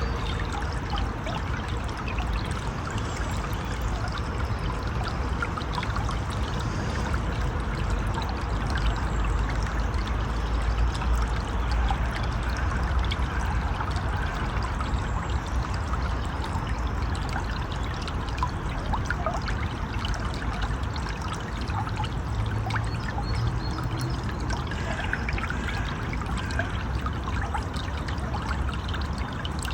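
River water flowing steadily, a continuous rushing with small trickles and splashes.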